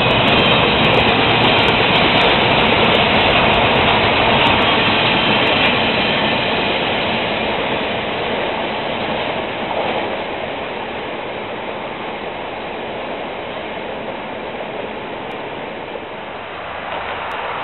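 Double-stack container freight train's cars rolling past on the rails, a steady rolling noise that fades over the first several seconds as the end of the train moves away.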